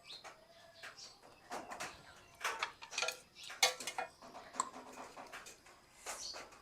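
A person eating boat noodles close to the microphone: wet chewing and slurping with many short, sharp clicks.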